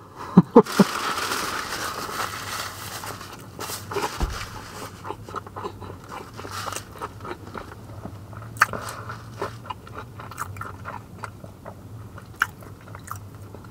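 Close-up chewing of a crispy fried chicken sandwich: crunchy bites and small crackling mouth sounds that go on steadily. It opens with three short, sharp, loud sounds in the first second.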